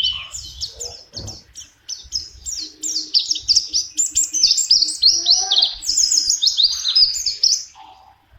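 White-eye (pleci) singing a fast, busy run of high chirping notes, which breaks off shortly before the end.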